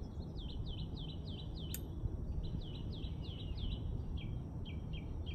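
A songbird singing runs of quick, evenly repeated downward-slurred chirps, with a short break about two seconds in where a single sharp click is heard, over a steady low outdoor rumble.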